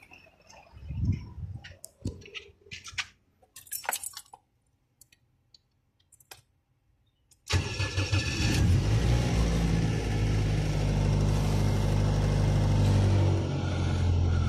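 A few faint clicks and knocks, then about halfway in a 2005 Toyota Echo's 1.5-litre four-cylinder engine comes in abruptly and runs steadily at idle. A newly fitted ignition coil is on cylinder 3, which had been misfiring.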